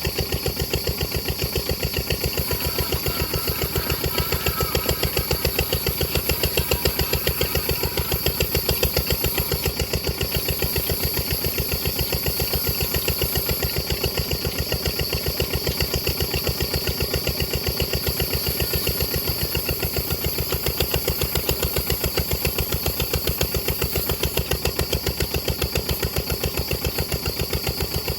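Diesel engine running steadily at a slow idle, its firing strokes an even, unbroken beat of several knocks a second.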